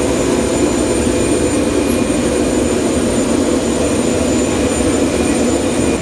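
Jet aircraft turbine running steadily: a loud, even rush with a thin, high, steady whine over it.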